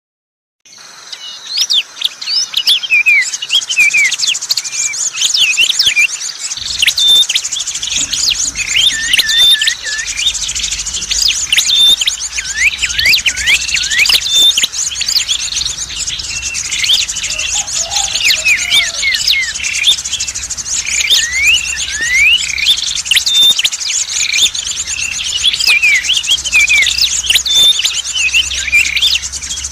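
Dense bird chirping from a lure recording for the prenjak merah (a small Malay warbler) and other small birds: many rapid overlapping chirps and quick rising and falling calls over a continuous high, fast trill. It starts suddenly just under a second in.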